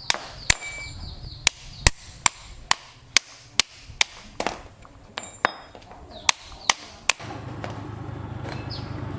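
A hammer striking metal, about fifteen blows at roughly two a second with a brief pause about five seconds in; some blows leave a short high ring. About seven seconds in, a steady low machine hum starts up and keeps going.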